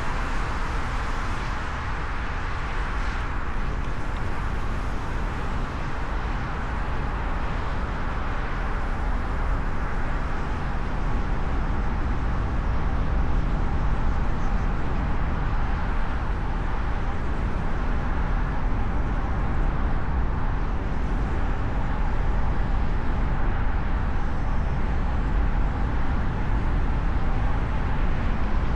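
Steady road noise from a car driving through city traffic, heard from a hood-mounted microphone: a constant low rumble of tyres, engine and wind that grows slightly louder about halfway through.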